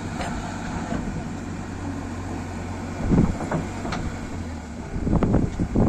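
JCB 3DX backhoe loader's diesel engine running steadily. It surges louder in low rumbles about three seconds in and again near the end.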